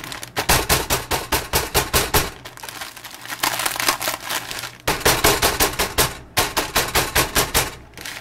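A block of dry instant ramen noodles being crushed by hand inside its sealed bag: rapid crunching and cracking, several snaps a second, in a few bursts with short pauses between.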